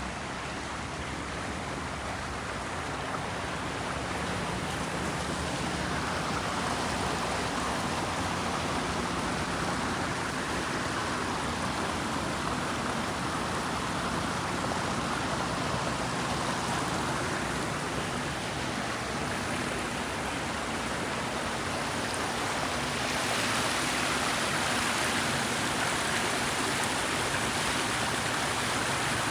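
A brook running: a steady rush and babble of flowing water that swells and eases a little.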